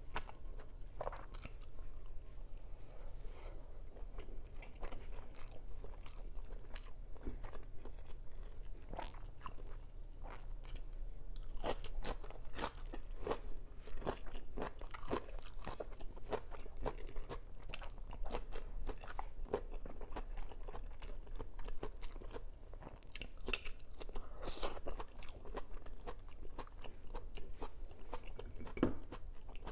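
A person chewing and eating rice by hand close to the microphone. Many short, sharp mouth clicks run throughout.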